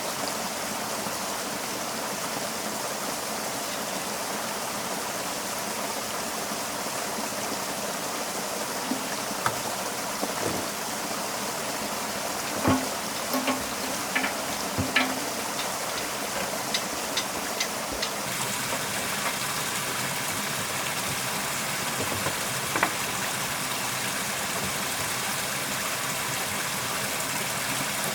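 Steady rushing of running water, with a handful of short metallic knocks and clinks through the middle.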